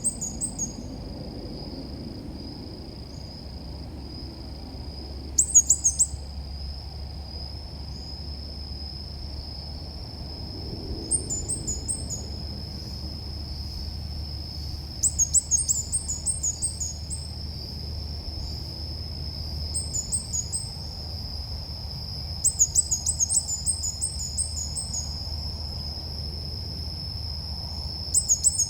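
Bird calls of the ốc mít, played as a lure: short, rapid series of high, sharp chirps, each phrase about half a second to a second and a half long, repeated six or seven times every few seconds. A steady high whine and a low hum run underneath.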